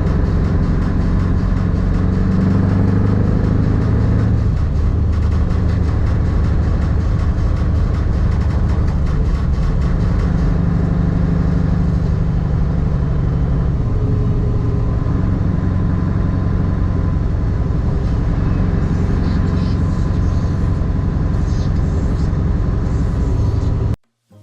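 Truck engine and road noise while driving. The engine note shifts a little in pitch now and then, and the sound cuts off suddenly near the end.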